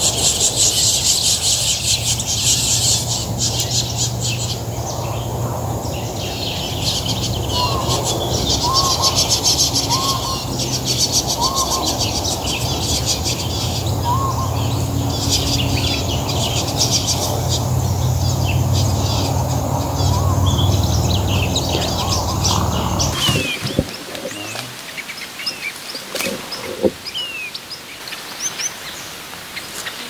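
Birds chirping in a dense, loud chorus of high, fast chatter over a steady low hum, with short rising call notes repeated now and then. After about 23 seconds it cuts abruptly to a quieter recording of scattered single chirps.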